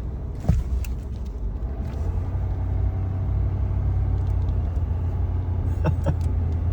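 Steady low rumble of a 2022 Ford F-450's Power Stroke diesel and tires heard from inside the cab while driving through deep snow. It grows a little louder about two seconds in, with a few brief knocks.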